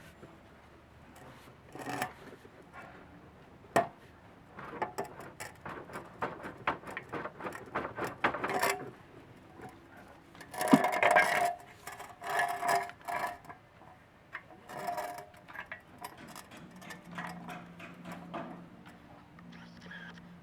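Metal tools and parts clinking and knocking in irregular clicks and clatters during hands-on work on a motorcycle exhaust, with a louder ringing metal clatter about ten seconds in.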